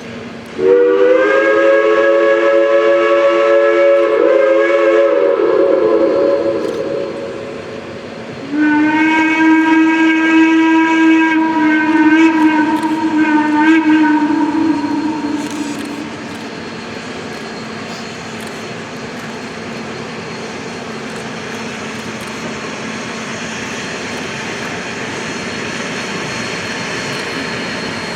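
Steam locomotive whistles. A chime whistle blows a long blast of several notes at once, and a second, lower single-note whistle follows with a longer blast that wavers briefly near its end. A steady rumbling noise follows.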